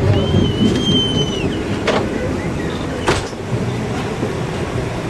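Passenger train running, heard from inside a coach: a steady rumble, a thin high metallic squeal in the first second or so, and two sharp clacks about a second apart.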